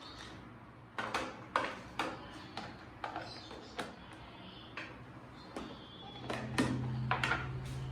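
Kitchen handling sounds, most likely food containers and their lids being handled: a dozen or so sharp clicks and knocks, irregularly spaced, with a steady low hum coming in about six seconds in.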